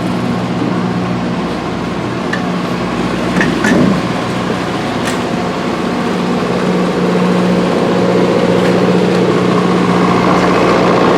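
An engine running steadily at one constant speed, a low even hum, with a few faint clicks and a brief louder knock about three and a half seconds in.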